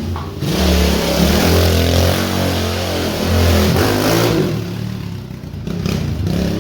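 Small pit bike engine revving up and down.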